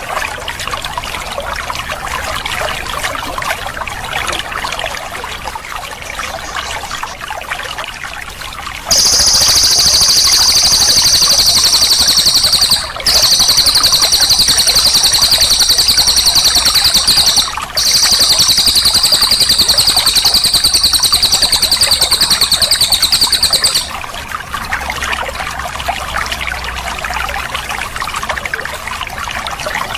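Water trickling steadily, with a cililin bird's very rapid, high-pitched rolling trill coming in about a third of the way through and running loud for about fifteen seconds, broken twice by short pauses, before the water is heard alone again.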